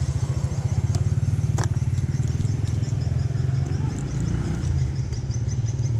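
Honda Winner 150's single-cylinder engine idling steadily in a fast, even low pulse, with a sharp click about one and a half seconds in.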